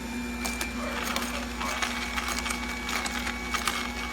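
Cold-press juicer running, its motor giving a steady hum, with irregular crackling and crunching starting about a second in as the auger crushes produce.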